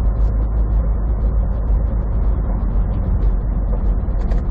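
Semi truck driving: steady low engine and road rumble heard from inside the cab.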